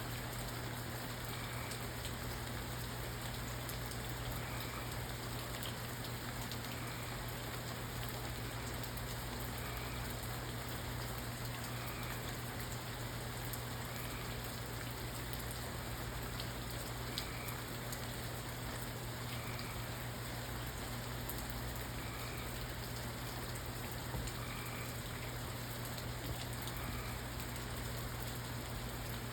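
Steady rain falling, with a few sharper drop ticks. A faint short high chirp repeats about every second and a half, and a low steady hum runs underneath.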